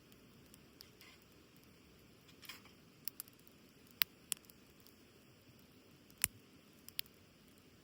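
Wood campfire crackling, with scattered sharp pops, the loudest about six seconds in.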